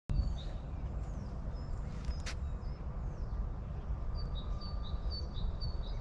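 Small birds chirping in short high notes, with a quick run of repeated chirps near the end, over a steady low outdoor rumble; a single sharp click about two seconds in.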